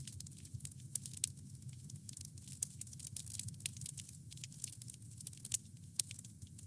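Wood campfire crackling, with many small irregular pops and snaps over a low steady rumble of the flames.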